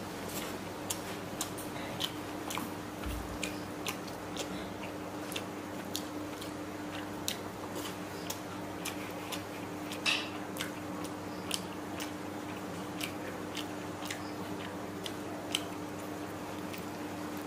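A person chewing a mouthful of fried rice and chicken curry eaten by hand, with many small, irregular wet mouth clicks and smacks, the loudest about ten seconds in. A steady low hum runs underneath.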